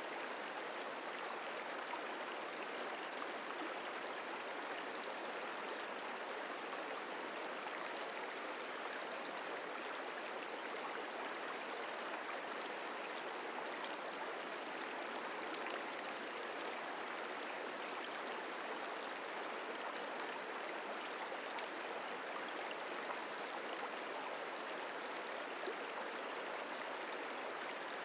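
The Merced River flowing: a steady, even rushing of water.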